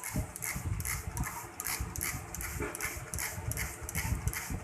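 Water spraying for a pet parrot's bath, coming in rhythmic hissing pulses about three times a second over a steady low mechanical hum.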